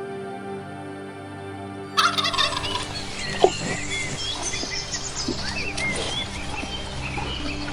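Farmyard poultry calling: a jumble of short bird calls and chirps breaks in about two seconds in, over soft background music with long held notes.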